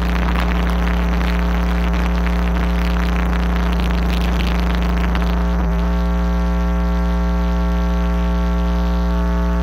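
Car audio system's subwoofers holding a loud, steady low bass tone during a sound-pressure measurement run, with higher overtones joining about six seconds in.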